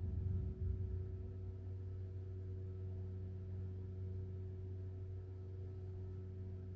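A steady low hum with a few faint steady tones above it, and a brief low rumble in the first second.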